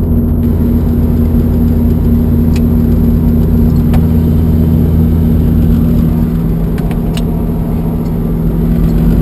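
Steady engine drone holding an even pitch throughout, with a few faint clicks.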